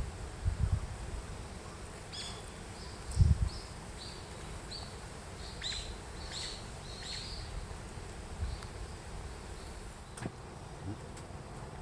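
Outdoor ambience with a small bird chirping a run of short high notes between about two and seven seconds in, over a couple of low rumbles from wind on the microphone; two sharp clicks near the end.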